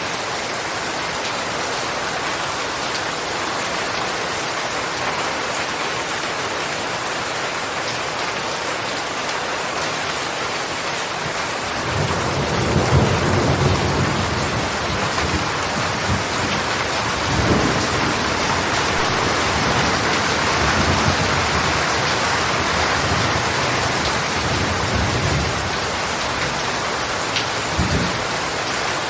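Steady rain falling, a dense even hiss throughout. About halfway through, rolling thunder joins as a low rumble that swells several times, the last short swell near the end.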